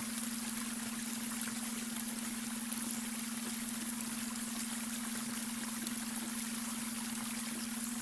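Babbling brook, water running and trickling steadily over stones, with a constant low steady tone underneath: the beta brainwave tone blended into the soundscape.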